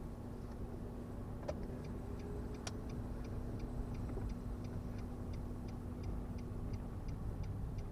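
A car's turn indicator ticking at an even rate inside the cabin as the car pulls over, over the low rumble of the car. A low steady hum stops about a second before the end.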